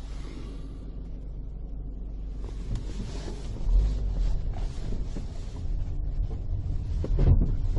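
Vehicle rumble and wind buffeting on a dash cam's microphone: a steady low drone with a hiss over it, growing louder about four seconds in and again near the end.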